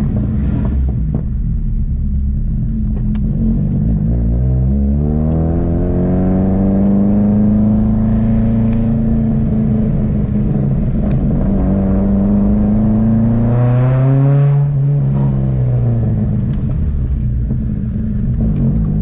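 Honda K20 four-cylinder engine breathing through individual throttle bodies, heard from inside the car's cabin while driving. The revs climb from about four seconds in, hold and ease off, climb and drop again partway through, then rise once more near the end.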